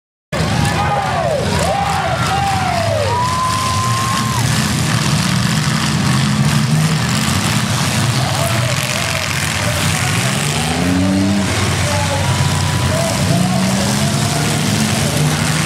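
Demolition derby cars' engines running loudly, with revs rising about ten seconds in, under shouting voices.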